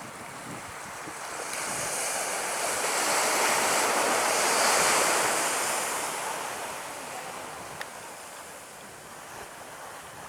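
Jet airliner passing the runway end, its engine noise swelling to a peak about halfway through and then fading, with a strong hiss in the highs. Steady surf and wind noise lie underneath.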